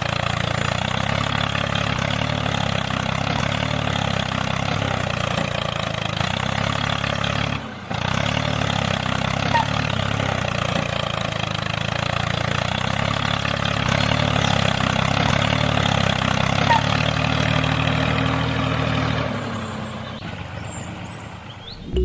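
A motor running steadily with a low hum. It cuts out for a moment about eight seconds in, then carries on and fades away near the end.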